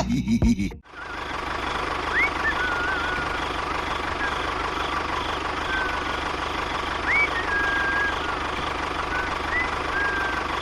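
Loud music cuts off under a second in, then a small engine or motor runs steadily. Short high whistling chirps sound every second or two over it.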